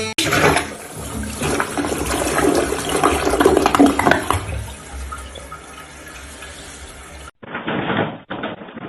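Rushing, swirling water that swells to a peak and then dies away over about seven seconds, stopping abruptly; a short burst of a different noise follows.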